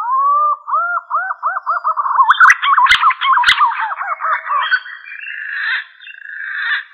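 Green pigeon (punai) song: a run of whistled, arching notes that quicken and grow louder in the middle, turning into a rougher, higher warbling towards the end. Two sharp clicks come about three seconds in.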